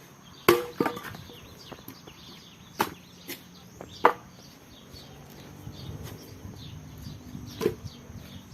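Sharp wooden knocks of firewood, about six at irregular intervals, the loudest about four seconds in.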